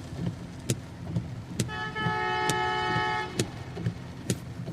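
A car horn sounds once, a steady toot of almost two seconds starting about a second and a half in. Heavy rain hisses on the car, and sharp clicks come roughly once a second.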